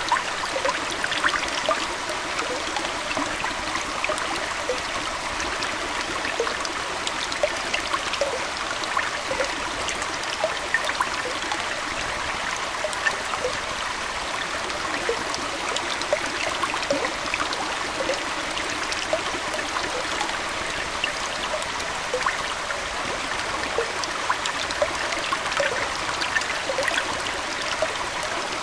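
Aquarium water trickling steadily, with many small bubbling plips.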